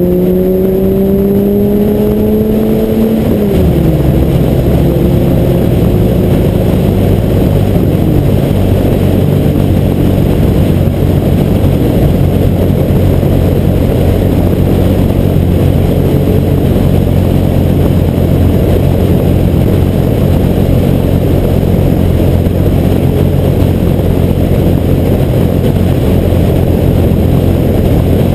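Car accelerating on a freeway, heard through a windshield-mounted GoPro HD Hero2 in its case. The engine pitch rises, then drops about three and a half seconds in, as at a gear change. After that comes a steady low rumble of wind and road noise at freeway speed.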